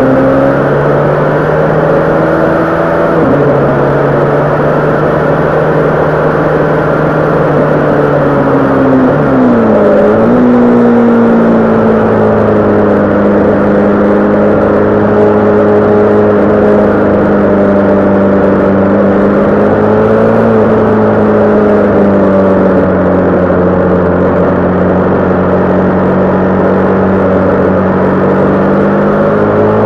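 Honda CB500 parallel-twin engine pulling along at speed. The revs step down once about three seconds in, dip and climb again around ten seconds in, then hold nearly steady with small rises and falls.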